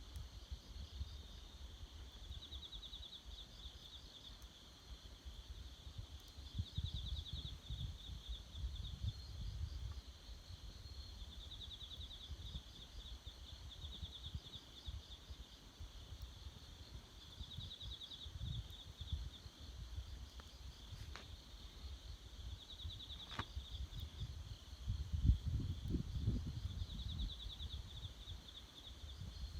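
Insects calling in repeated bursts of rapid, high-pitched pulsed trills, over a low rumble that swells near the end. Two sharp pops from the campfire come in the second half.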